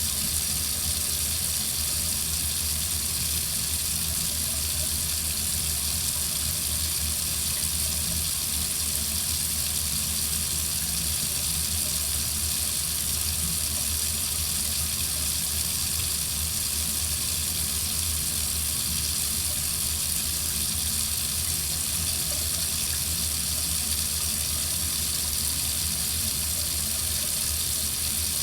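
Water tap running steadily into a sink, an even, unbroken splashing hiss.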